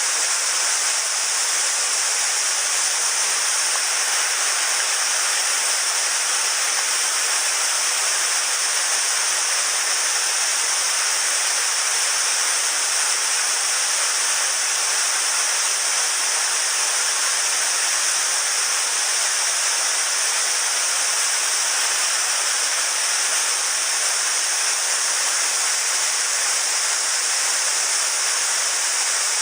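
Rushing water of a mountain headwater stream, a steady hiss with no change.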